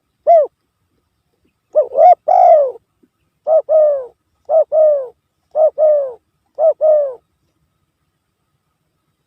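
Spotted dove (tekukur) cooing. A longer phrase comes first, then four short two-part coos about a second apart, each note falling in pitch. The calls stop about seven seconds in.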